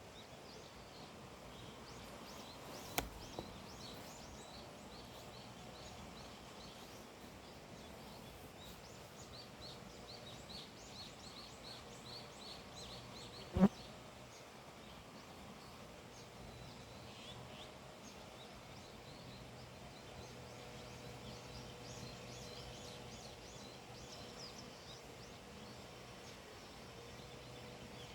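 Small birds chirping, with quick series of short high calls repeating over a steady low background hiss. A faint click comes about three seconds in, and a single sharp knock, the loudest sound here, about halfway through.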